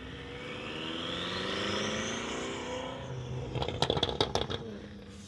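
Car engine revving, its pitch climbing for about two seconds and then dropping off, followed by a quick string of sharp pops and cracks.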